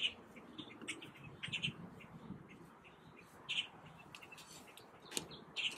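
Small birds chirping in short, scattered calls over a faint background hiss.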